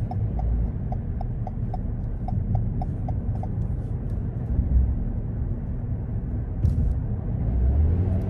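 Car driving, with a steady low rumble of engine and tyres on the road. In the first few seconds a light ticking, about four ticks a second, sounds over the rumble and then stops.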